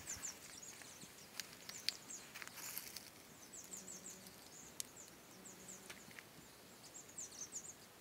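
Faint outdoor ambience: small birds twittering in several short bursts of quick high notes, with a few sharp clicks in between.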